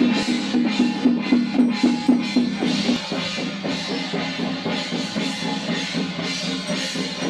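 Music with drumming: quick rhythmic drum strokes, about three or four a second, loudest over the first three seconds.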